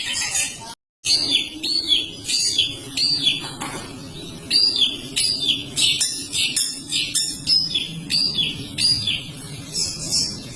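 Long-tailed shrike (cendet) singing a long run of short, repeated chirping notes, each dropping in pitch, about one to two a second. The sound cuts out completely for a moment about a second in, over a low steady background hum.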